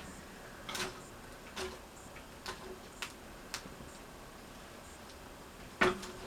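Wood stove fire crackling: irregular sharp cracks and pops from the burning firewood, about six of them, the loudest near the end.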